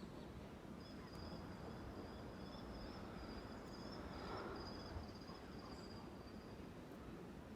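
Faint outdoor background with an insect's high, thin chirring that starts about a second in and stops near the end.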